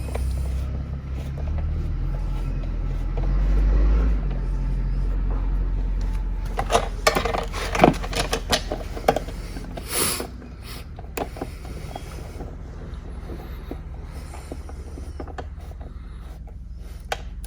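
Hand tool tightening 10 mm bolts on an ATV's plastic body panels: a low rumble of handling at first, then a run of sharp metallic clicks and clinks with one louder knock, and a few faint ticks near the end.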